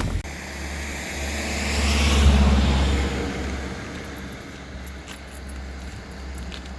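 A road vehicle driving past, growing louder to a peak about two seconds in and then fading away, over a steady low rumble.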